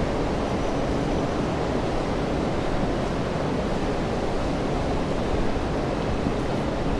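Steady rainfall: an even, unbroken hiss of rain with a low rumble underneath.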